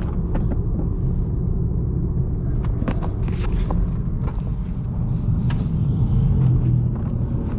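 A 2018 Honda Accord 1.5T's turbocharged four-cylinder engine pulling steadily through its CVT, with road and tyre noise. The steady low drone swells a little near the end, with scattered light clicks over it.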